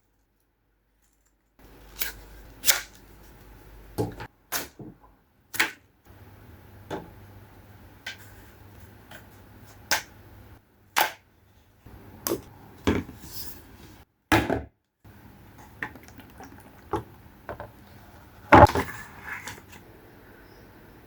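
Irregular knocks and clatters of household objects being handled and set down, each a short sharp tap with a quiet room hum between them.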